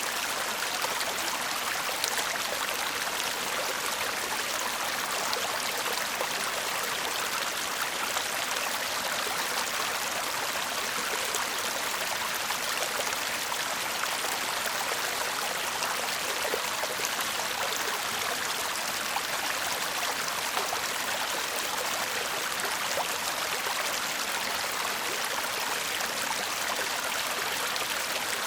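Shallow stream babbling over stones in a steady, even flow of water, with fine splashes and trickles throughout.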